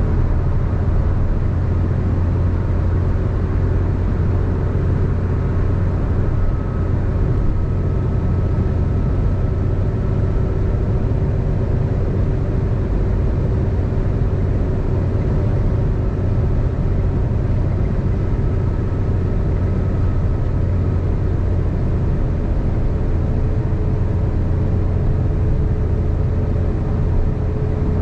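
Steady road noise of a car driving at highway speed: a constant low tyre rumble with a faint engine hum.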